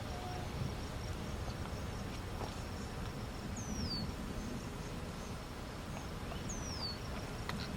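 A bird repeating a short, high, down-slurred whistle about every three seconds, over a low rumble and a faint steady high insect drone.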